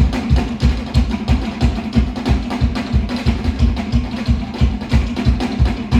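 Fast, steady Polynesian drumming, about five strokes a second, accompanying a luau warrior dance.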